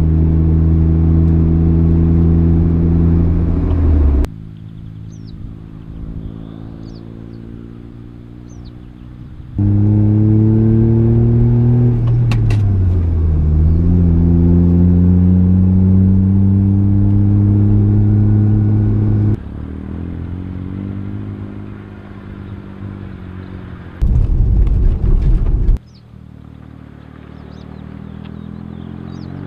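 Smart City Coupe's small three-cylinder engine running and accelerating in several cut-together driving shots: a steady hum, then a rising run that dips at a gear change and climbs again. A loud rushing noise lasts about two seconds near the end.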